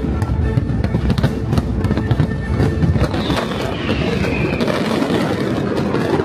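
Fireworks bursting in quick succession, a dense run of sharp bangs and crackles, with deep booms in the first half that thin out after about three seconds. Music plays under them.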